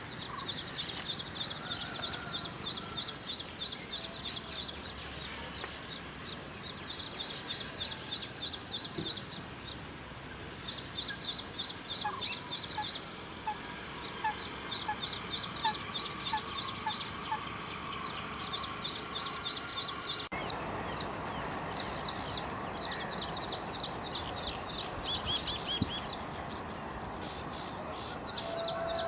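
Birds calling: runs of quick, high notes, about six a second, each run lasting two or three seconds with short pauses between, repeated throughout over steady outdoor background noise.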